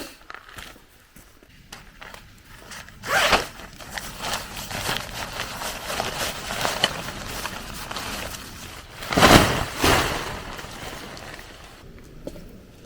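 Handling noises: rustling and scraping, with two louder bursts about three seconds and nine seconds in.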